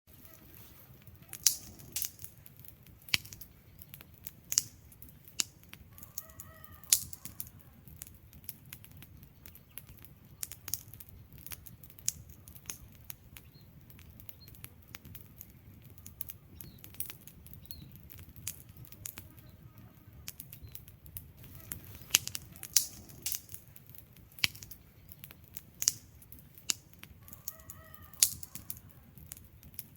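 Wood fire crackling in a fireplace: irregular sharp snaps and pops from the burning logs over a low steady rumble of flames.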